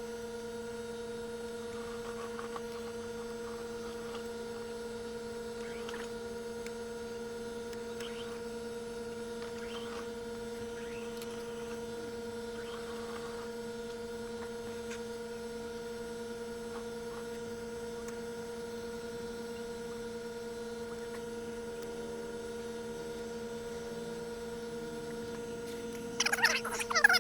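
A steady hum at a constant pitch with several faint overtones, holding an even level. About a second before the end a much louder, higher sound with pitch sliding up and down cuts in over it.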